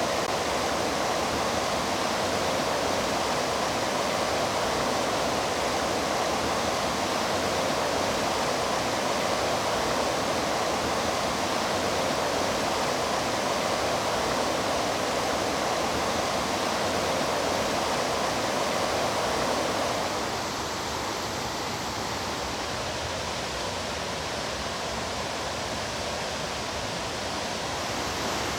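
Steady rushing of water in a mountain stream, a continuous dense splashing with no breaks. About twenty seconds in it becomes slightly softer and thinner.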